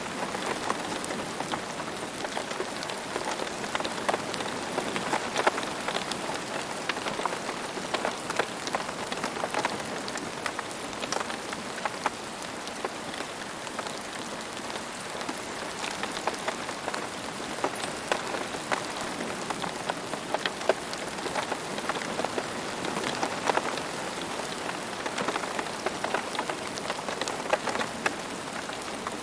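Steady rain falling on a hard surface, a continuous hiss dotted with many distinct pattering drops.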